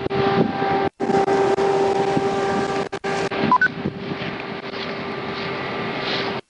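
A vehicle running, with a steady hum and road or wind noise. A short two-note electronic beep sounds about three and a half seconds in.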